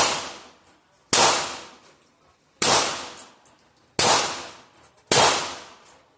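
An AK-pattern rifle fired in slow single shots, five in all, spaced a little over a second apart, each shot ringing away over about a second.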